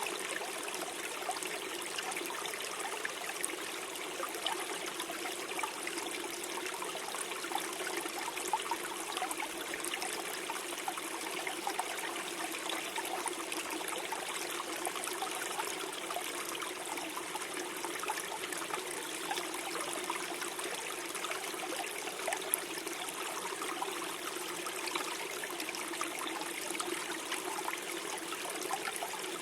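Small forest stream flowing and gurgling steadily over stones, with continuous trickling and bubbling.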